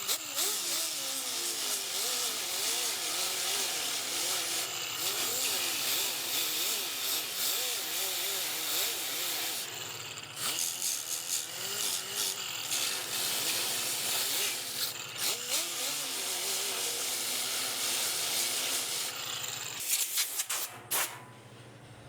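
Welder working on a small hole in a steel car fender, a long crackling run of noise with a wavering tone underneath. It breaks off briefly several times and stops just before the end.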